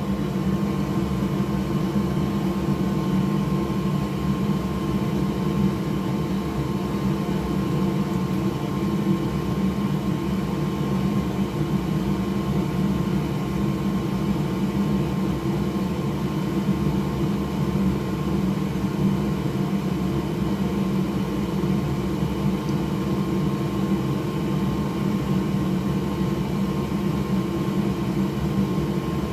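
A bench cooling fan's electric motor whirring steadily, with a constant hum.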